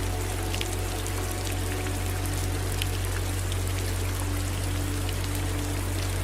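Steady rain, with separate drops tapping through a continuous hiss and a steady low rumble underneath.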